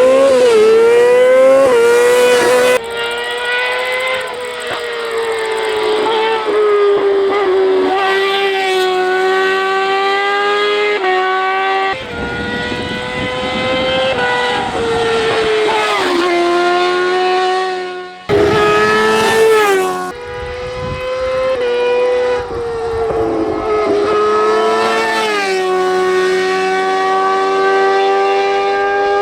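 Racing engine at high revs during a hill-climb run. The pitch holds high and wavers, then several times falls sharply and climbs again as the driver shifts gears and lifts off between corners.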